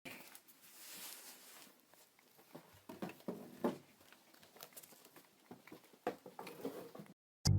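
Faint, scattered light taps and scuffles. Loud brass music cuts in abruptly near the end.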